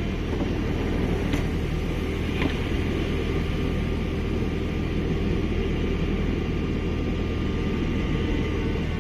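Steady low hum and rumble of an SNCF Z 8800 double-deck electric multiple unit at the start of a departure, with no rise in pitch yet. Two faint clicks come about a second and a half and two and a half seconds in.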